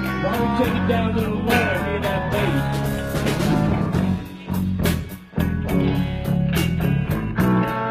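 Blues band playing an instrumental passage: electric guitar lead with bent notes over bass and drums, dropping away briefly a little past the middle.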